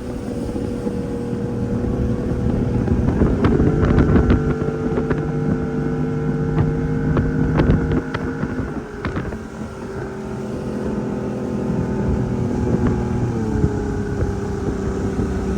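Outboard motor running steadily at cruising speed under way, its pitch dipping slightly a couple of times. A series of sharp slaps come between about three and nine seconds in.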